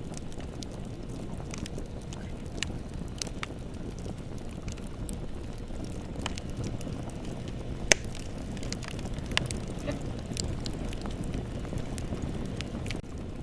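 Bonfire burning: a steady low rush of flame with scattered sharp crackles and pops, one much louder pop about eight seconds in.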